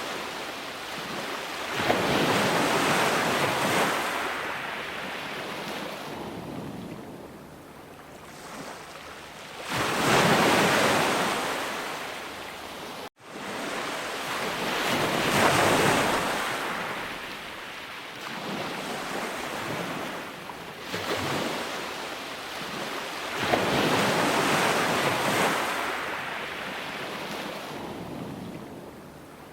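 Sea waves breaking and washing up the shore: a rushing surge swells up and fades back about four times. There is a split-second gap in the sound a little before the middle.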